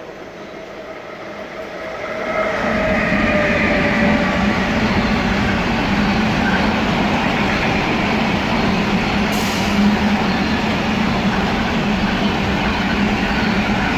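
Container freight train hauled by two DB Class 152 electric locomotives passing close by. The sound grows louder over the first couple of seconds, with a whine falling slightly in pitch as the locomotives go by, then settles into the steady rolling rumble of the container wagons on the rails.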